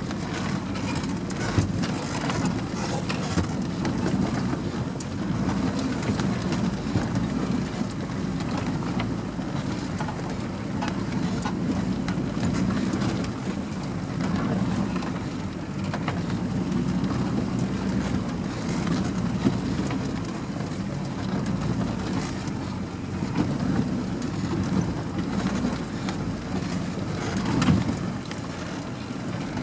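An off-road competition vehicle's engine running steadily at low, even revs, with small clicks and knocks over it.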